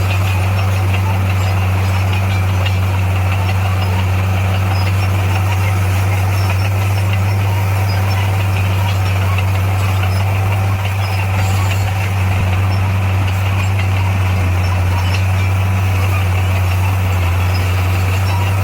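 Bulldozer's diesel engine running steadily, a loud, even drone that does not rise or fall.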